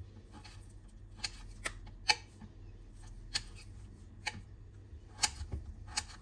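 Scattered sharp taps and clicks of kitchen food preparation, about eight of them at uneven intervals, over a low steady hum.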